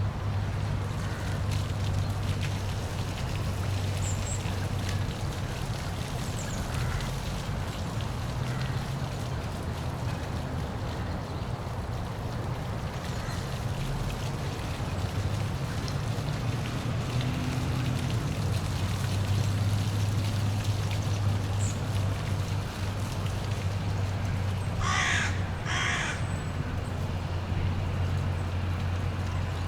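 Waterfall rushing steadily, with a deep low rumble under it. Two short harsh calls sound near the end, a second apart.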